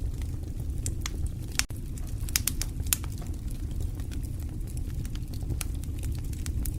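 Fire crackling: irregular sharp pops and snaps over a steady low rumble, with a cluster of louder pops between about one and a half and three seconds in.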